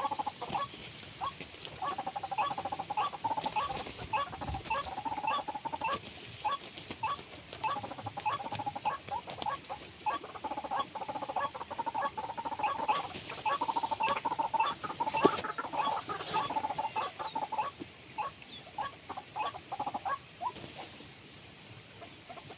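Rapid series of short clucking bird calls, several a second. The calls thin out and go quieter for the last few seconds.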